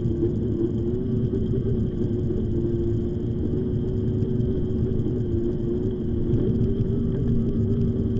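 Electric bike's motor whining steadily while riding, the pitch wavering slightly, over a continuous low rumble of tyres and wind.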